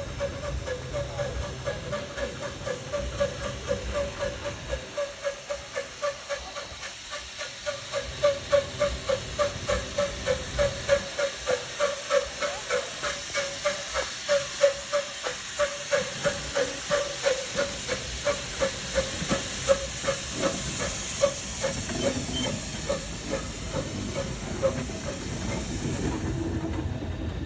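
Steam locomotive chuffing in a steady rhythm, about two to three beats a second, with steam hissing; near the end the beats fade into an even hiss.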